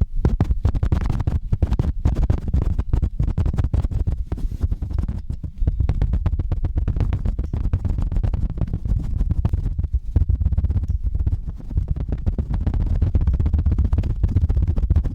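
Fast, rough scratching and rubbing directly on a microphone, a dense stream of rapid rasping strokes over a heavy low rumble from handling the mic.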